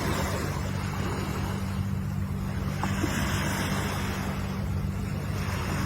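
Ocean surf: waves breaking and washing in a continuous hiss, swelling once near the start and again about three seconds in, over a steady low rumble.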